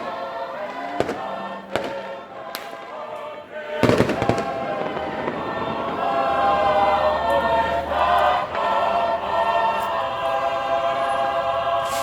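Fireworks going off in scattered sharp bangs, the loudest cluster about four seconds in, while a group of voices sings together like a choir.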